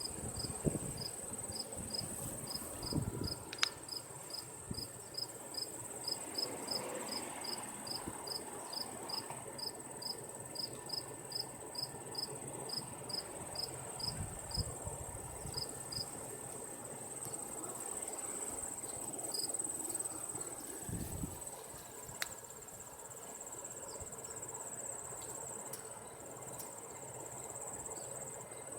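Steady high-pitched insect trilling, with a run of short evenly spaced chirps at about two a second that stops about halfway through. Occasional faint low thumps.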